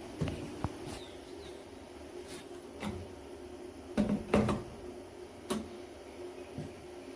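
Irregular knocks and clunks, about seven of them, the loudest pair about four seconds in, over a steady low hum.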